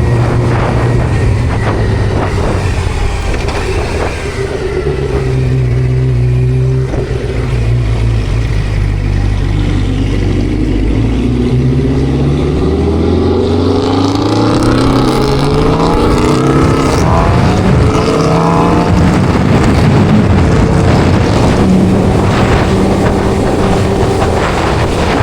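Engines of a Suzuki GSX-R600 sport bike and a Dodge Charger 392 Scat Pack. They idle low and steady at first, then from about ten seconds in one accelerates through several gears, its pitch climbing and dropping at each shift, before settling into steady running.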